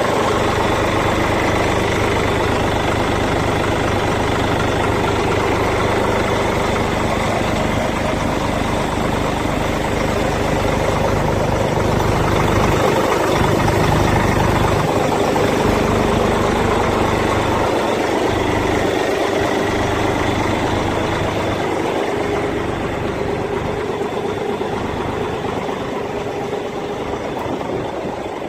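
Diesel engine of a 2001 Hyundai tractor-unit truck idling steadily, a little louder around the middle and easing off slightly near the end.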